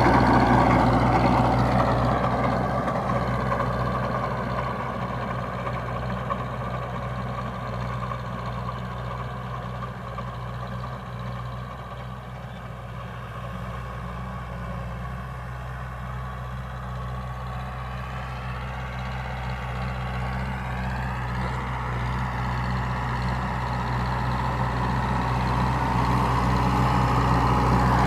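Tractor engine running steadily under work, with a faint whine above it; it fades over the first dozen seconds and grows louder again toward the end.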